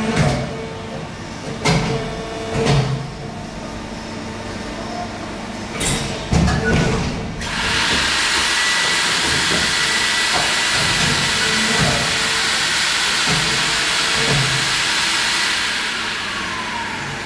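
A machine's clamping mechanism running: a steady hum with repeated clunks and knocks, then a loud steady hiss like escaping air that starts abruptly about seven seconds in and fades out near the end.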